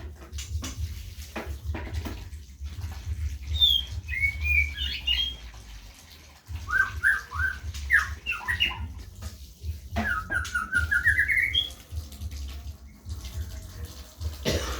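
Caged white-rumped shamas chirping and calling in short bursts. The calls come a few seconds in and again near the middle, then a quick rising run of notes, over a low steady hum and scattered knocks.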